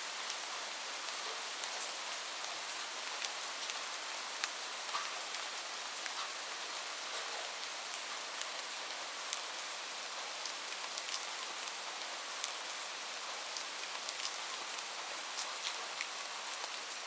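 Steady rain falling on a roof, an even hiss with many sharp individual drop ticks scattered through it.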